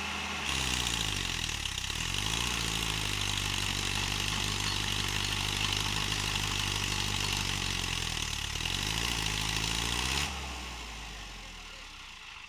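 Tractor diesel engine revving up, held at high revs for several seconds, then revving down and dropping off about ten seconds in: the tractor is stuck with a wheel sunk in and is trying to pull free.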